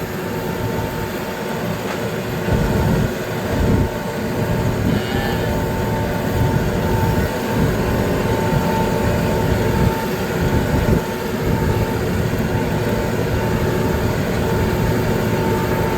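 Tractor engine running steadily as it drives slowly ahead of the herd, a continuous rumble with a steady whine held over it.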